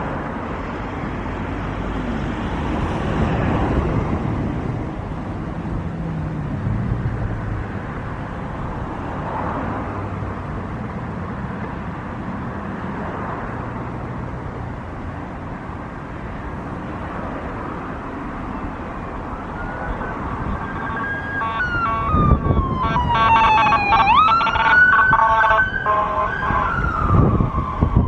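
A steady rush of background noise, then about twenty seconds in an emergency vehicle's siren starts wailing, its pitch sliding down and back up, and becomes the loudest sound.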